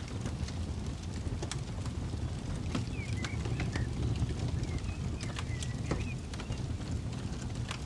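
Campfire crackling, with irregular sharp pops over a low steady rumble. A bird chirps a few short calls about three and five seconds in.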